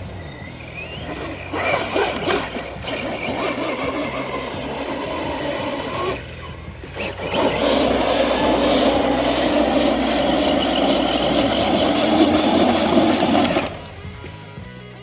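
ARRMA Senton brushless short-course RC truck driving hard, its motor whining and tires churning through dirt and grass, over background music. The loudest run ends abruptly near the end.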